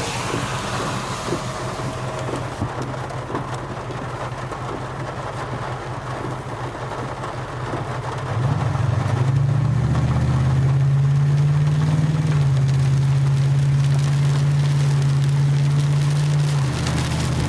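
Truck engine idling, then about eight seconds in it accelerates away, its note rising and getting louder before holding a steady pull, with a brief change near the end, heard from inside the cab.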